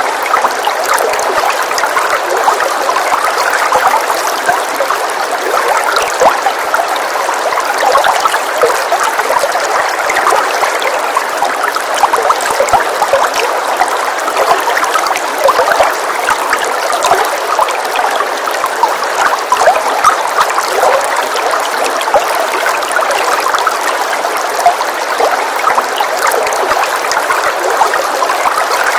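Steady rain ambience: a dense, even hiss of many small drop ticks that never lets up.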